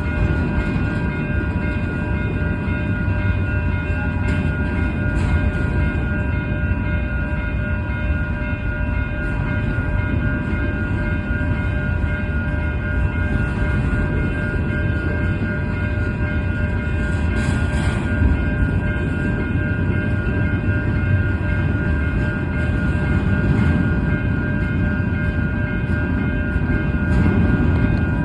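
Freight train rolling past: a steady heavy rumble of wheels on rail with a continuous high, ringing tone running over it.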